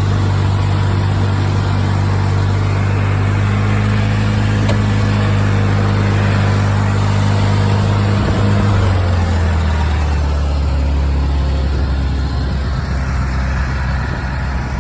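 Craftsman lawn tractor's 20 hp Kohler Magnum engine running steadily at speed, then dropping to a lower, slower note about nine seconds in as the engine speed comes down.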